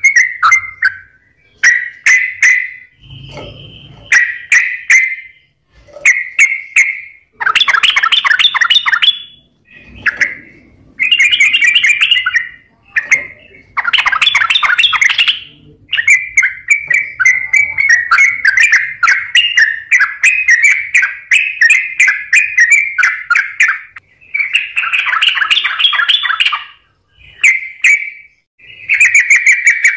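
Yellow-vented bulbul (trucukan) singing in full, non-stop 'gacor' form: quick chattering phrases, one after another with brief pauses between them.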